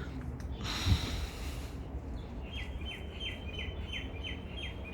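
A bird calling a quick run of short, falling notes, about four a second, starting about halfway through, over a steady low rumble. A brief thump and a rush of hiss come about a second in.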